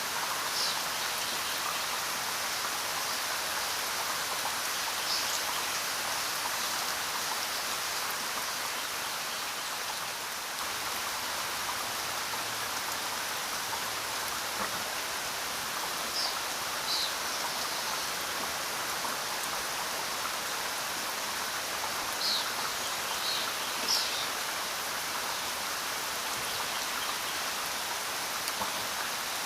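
Steady rain falling, an even hiss with no let-up. A handful of brief high-pitched sounds stand out over it, mostly in the second half.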